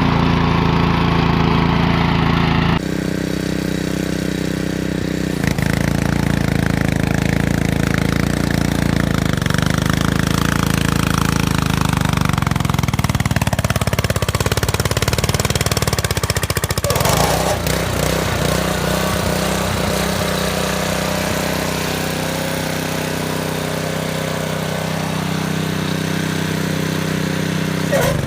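Small gasoline engine of a garden tiller running while tilling soil, its pitch drifting with the load. The sound changes abruptly a few times.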